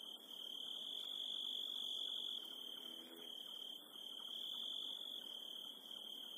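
A steady high-pitched tone over a faint hiss, its loudness swelling and easing a little.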